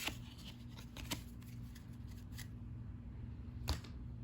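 1990-91 NBA Hoops cardboard trading cards being handled and flipped through, with a few short sharp clicks as cards snap against one another: one at the start, one about a second in, and the loudest near the end.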